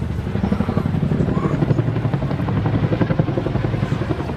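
Boeing Chinook twin-rotor helicopter flying overhead, its rotor blades beating in a rapid, steady pulse.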